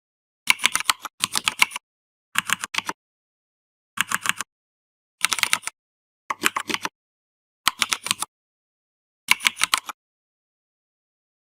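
Computer keyboard typing in eight short runs of a few quick keystrokes each, with dead silence between the runs.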